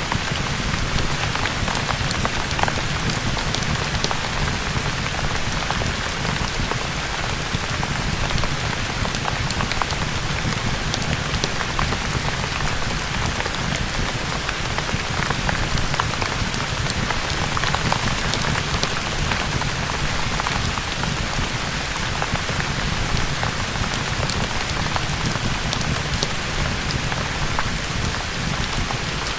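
Steady rain ambience mixed with a crackling fireplace: an even, unbroken hiss with scattered sharp crackles and a low rumble underneath.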